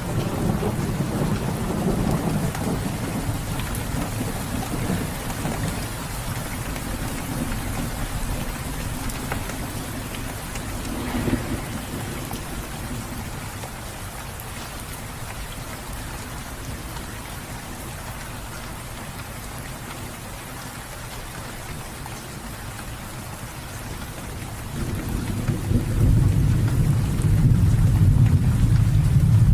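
Steady rain falling, with low rolling thunder. The thunder rumbles at the start, dies away, swells briefly about a third of the way in, and builds loudest near the end.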